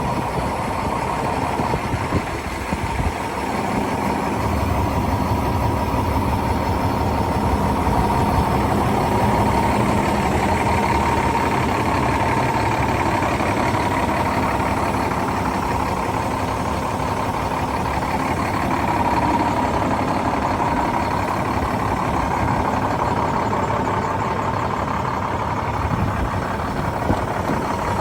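Diesel engine of a 2007 International 7600 snow plow truck idling steadily, growing louder and deeper about four seconds in.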